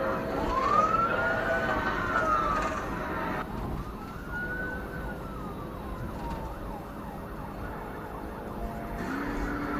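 Police cruiser siren on a slow wail, rising and falling through two long cycles of about three seconds each, over steady vehicle and road noise.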